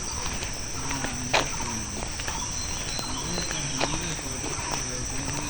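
Steady, high-pitched chirring of insects such as crickets, with scattered light taps and one sharper click about a second and a half in. A faint, low, wavering tone runs underneath.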